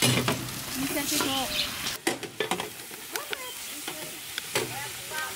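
Sliced green banana sizzling in oil in a large steel pan while long-handled metal spatulas stir it, scraping and knocking against the pan in irregular strokes.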